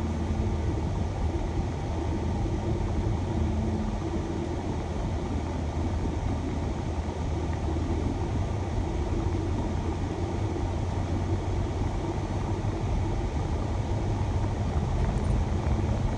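Shuttle van driving, a steady low rumble of engine and road noise.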